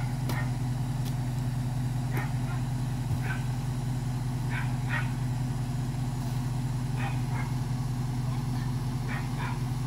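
2007 Ram 1500 pickup's engine running steadily at idle, an even low hum, with a few short faint higher sounds over it.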